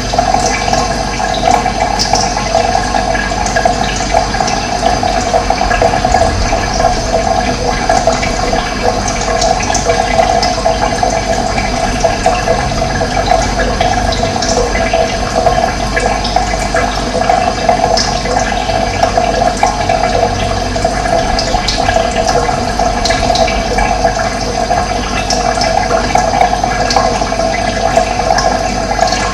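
Steady rushing of running water, with occasional short, high bird chirps scattered through it.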